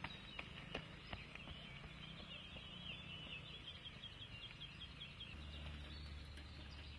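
Faint footsteps on a gravel trail, then a small bird sings a quick run of repeated high chirps, about five a second, for a couple of seconds.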